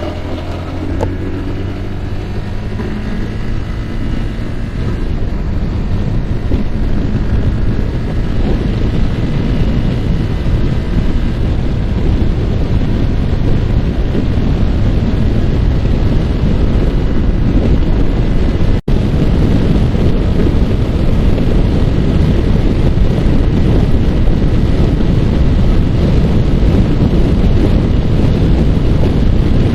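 Wind rushing over the microphone on a moving Yamaha R15, its single-cylinder engine audible at first and then mostly covered as the wind noise grows louder over the first several seconds and holds steady. The sound drops out for an instant about two-thirds of the way through.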